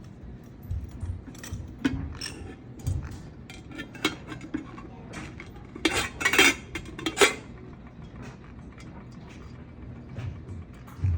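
A green-cheeked conure working at a container lid with its beak: irregular taps, clicks and clinks, with the loudest cluster of sharp knocks about six to seven seconds in.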